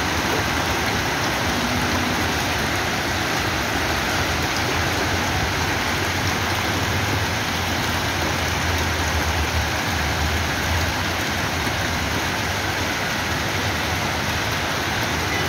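Heavy rain pouring steadily onto a street awash with floodwater and hail slush: an even hiss of rain and running water. A low rumble swells for a few seconds in the middle.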